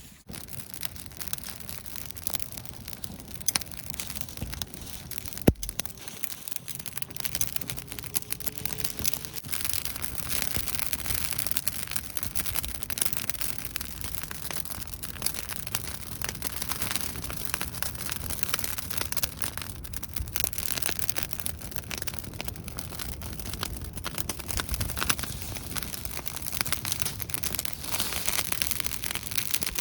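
Wood campfire crackling steadily, a dense stream of small pops and snaps, with one sharp crack about five and a half seconds in.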